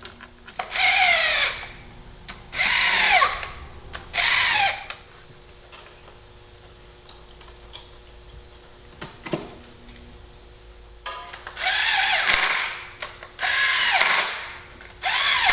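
Cordless drill/driver running valve cover bolts in, in about six short bursts of a second or so, the motor's whine changing pitch within each burst as it loads and winds down.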